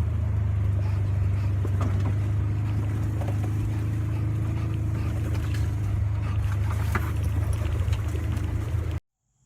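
A steady, loud low engine drone that cuts off suddenly about nine seconds in.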